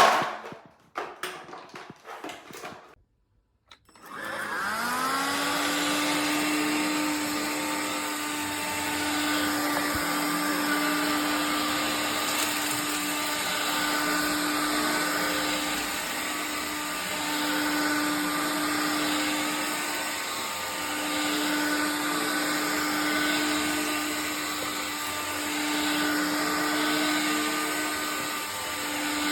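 A few short clicks and knocks, then the Electrolux Ergorapido cordless stick vacuum's battery motor starts about four seconds in, spins up with a rising whine and runs steadily, its level swelling and fading slightly.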